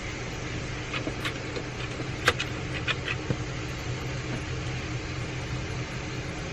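A steady low mechanical hum, with a few short clicks and rustles between about one and three and a half seconds in; the sharpest click comes a little over two seconds in.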